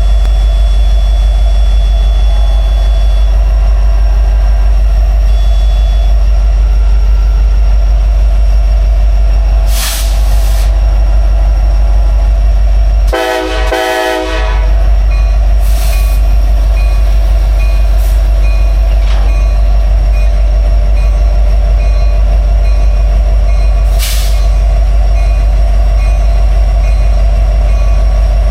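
Freight train led by a pair of diesel locomotives approaching and passing close, its engines running with a heavy, steady rumble. One short horn blast about halfway through, plus a few sharp knocks.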